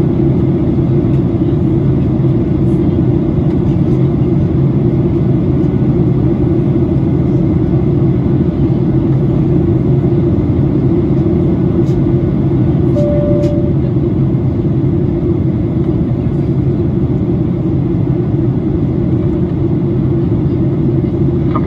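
Steady cabin noise inside a Boeing 737-800 airliner in flight: engine drone and airflow, heavy in the low end. A short single tone sounds once around the middle.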